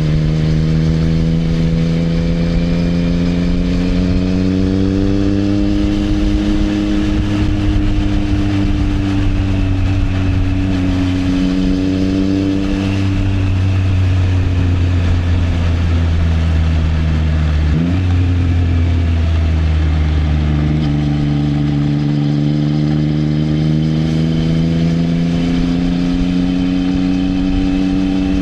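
Triumph Trident 660's inline three-cylinder engine through an Arrow exhaust, heard from the rider's seat while cruising. Its pitch rises slowly, eases off through the middle, and climbs again, with one quick gear change about two-thirds of the way through.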